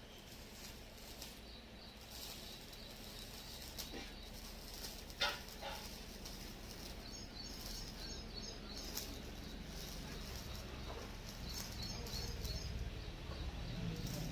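Faint outdoor background with small birds chirping in short repeated bursts, and a single brief click about five seconds in.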